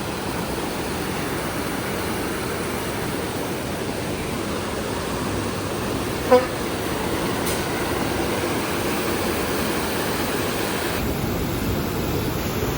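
Steady rushing noise, with a single short, pitched toot about six seconds in.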